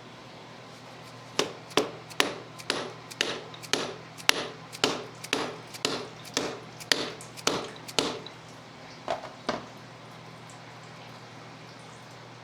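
Repeated sharp tool taps on a shock part during the rebuild, about two a second, around fourteen strikes in a row, then two more after a short pause.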